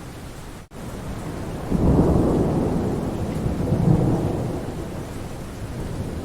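Steady rain with a roll of thunder: a low rumble builds about two seconds in, swells twice and fades away. The sound cuts out for an instant under a second in.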